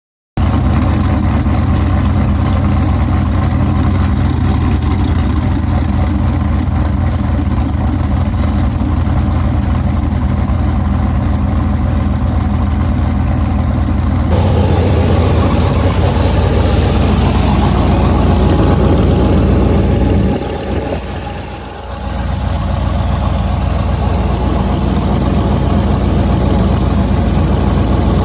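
Pontiac Grand Prix GXP's V8 running on E85 at idle just after a cold start, in cold winter air. About halfway through, the sound gets fuller and louder, and a little later it dips briefly before steadying again.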